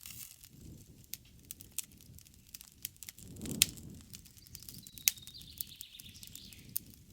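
Campfire wood crackling and popping over the low flutter of the flames, with a louder pop about three and a half seconds in and another sharp pop about five seconds in. A faint, slightly falling bird call sounds from about five seconds in to near the end.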